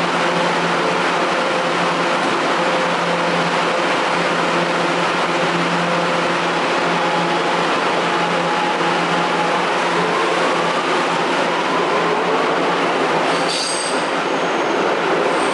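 Kawasaki R211A subway train pulling out of the station: steady rumble of wheels on rail under a motor hum, with a whine that rises in pitch as the train gathers speed. Brief high squeals near the end.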